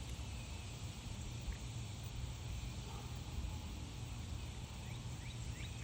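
Outdoor ambience: a steady low rumble and hiss, with a few short rising bird chirps near the end.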